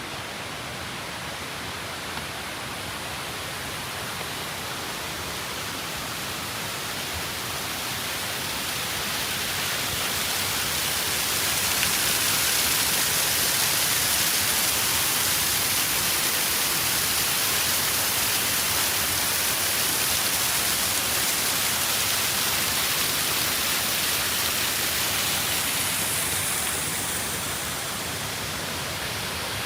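Steady rush of falling water from a waterfall, growing louder over the first ten seconds or so, holding, then easing off a little near the end.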